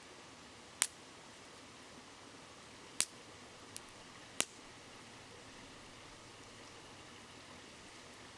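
Wood fire crackling: a few sharp pops, the loudest about a second in and three seconds in, over a steady hiss of a river flowing.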